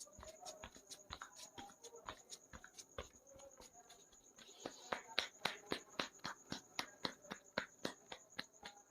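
Sharp hand slaps and taps of a barber's head massage, a few strokes a second, growing louder and more regular about halfway through, over a faint steady high whine.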